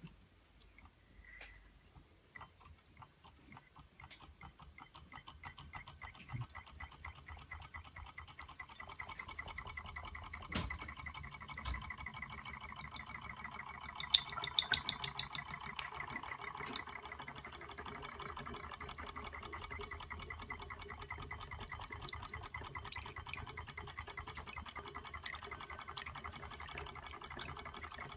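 Reichelt Adler model Stirling engine running, a fast even mechanical clicking that starts faint, speeds up and grows louder over the first eight seconds or so, then runs steadily; a few louder clicks come about halfway.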